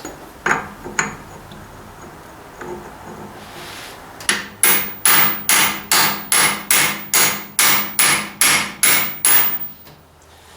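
Hammer blows on a stuck, worn tractor fastener: two single taps, then a steady run of about fourteen quick strikes, roughly two and a half a second, that stops shortly before the end.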